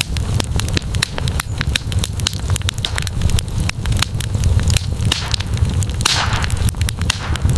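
Wood campfire crackling, with many sharp pops and snaps over a steady low rumble. A short rush of hiss rises and fades about six seconds in.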